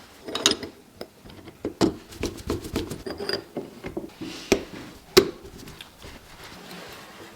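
Irregular clicks, taps and knocks of small metal parts being handled and worked by hand, with a few sharper knocks, the loudest a little past the middle, and fewer sounds in the last second or so.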